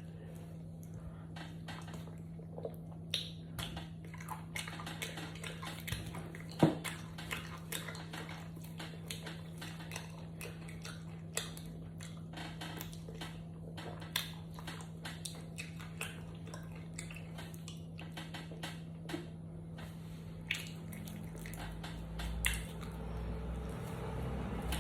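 Eating sounds: chewing, with many small scattered clicks of a utensil against a plate or dish, over a steady low hum.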